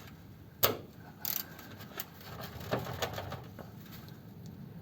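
Ratchet spanner clicking in short runs on a gearbox rear-mount nut, with a sharp metallic knock a little over half a second in.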